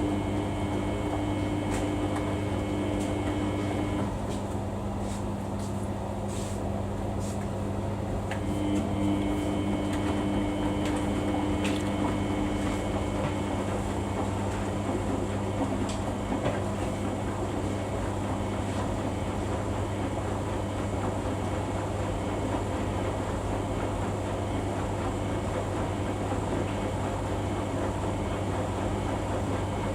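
Samsung washing machine running a Daily 40 wash: a steady low hum with a motor whine that sounds for a few seconds at the start, stops, and returns for about five seconds a little later as the drum turns.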